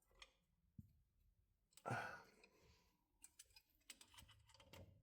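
Near silence with a few faint, scattered clicks, and a brief soft rustle about two seconds in.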